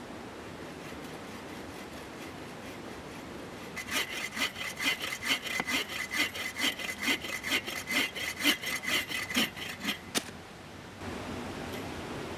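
Hand saw cutting through wood in a quick, even run of rasping strokes, about three a second for some six seconds, then stopping. A steady rush of a mountain stream runs underneath.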